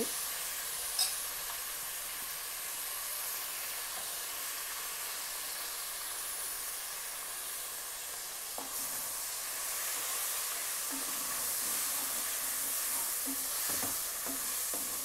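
Hot oil sizzling steadily in an aluminium pressure cooker as fresh coriander, mint leaves and green chillies fry, with a single sharp tap about a second in. Near the end a wooden spatula stirs and scrapes the pan.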